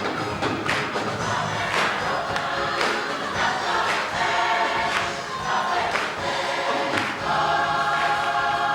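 Gospel choir singing with a steady beat about once a second, the voices settling into a long held chord near the end.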